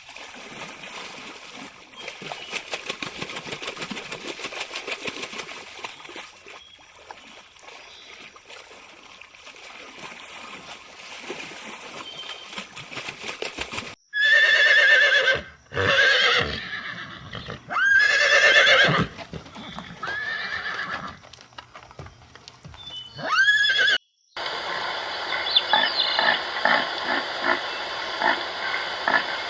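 Horse whinnying several times, loud pitched calls about halfway through, after a stretch of quieter rustling noise. Near the end the sound cuts to a different steady noise with repeated clicks.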